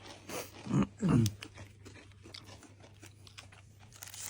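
Someone biting and chewing a crispy pastry, small crunches through the whole stretch, with a short voiced sound of appreciation, the loudest part, about a second in.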